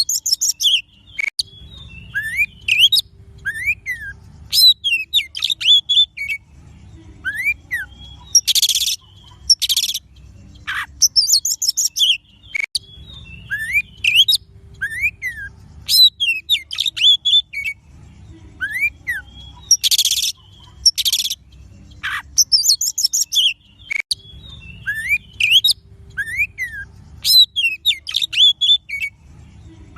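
Oriental magpie-robin (kacer) song: a varied run of clear whistles, rising-and-falling slurred notes and short harsh rasping notes. The same sequence comes round about every eleven seconds. It is a looped lure recording played to set other kacer singing.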